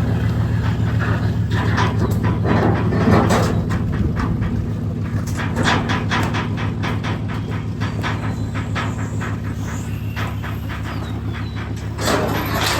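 Pickup truck engine running at low speed while backing a livestock trailer, with frequent rattles and clanks from the trailer.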